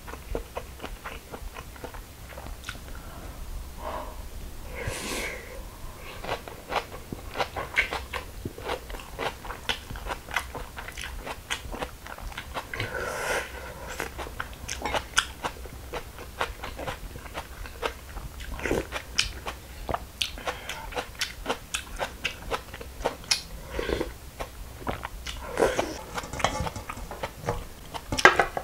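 Close-miked chewing of crisp raw young-radish (yeolmu) bibimbap: many small crunches all through, with a few longer, louder mouth sounds.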